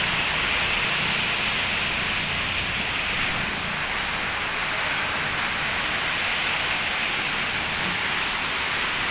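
Heavy rain pouring down steadily in a tropical downpour.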